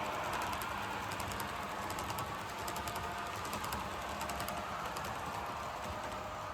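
HO-scale model coal train running on the layout track: a steady hum from the locomotive and rolling wheels with a rapid clicking over the rail joints. It is louder at first and fades as the train moves off.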